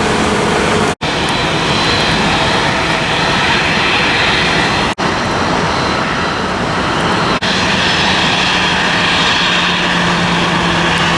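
Airliner engines running loud and steady. The sound drops out for an instant about a second in, again at about five seconds and once more a little past seven seconds.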